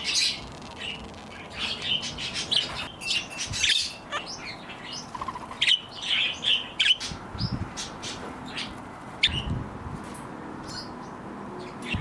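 A mixed flock of small pet parrots and parakeets chirping and squawking, with many short calls scattered throughout. A couple of low rumbles of wind on the microphone come in the second half.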